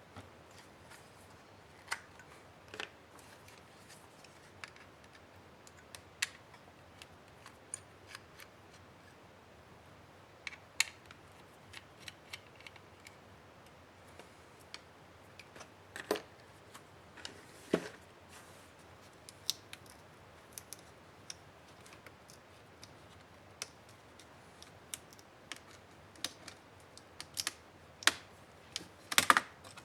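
Irregular small clicks, taps and light knocks of hands and small tools working on the plastic and metal parts of an HP 15-DA laptop during disassembly, with a quick cluster of clicks near the end.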